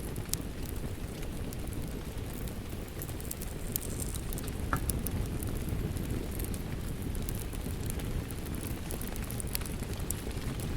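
Crackling wood fire mixed with steady rain: a constant low hiss with scattered sharp crackles and pops throughout.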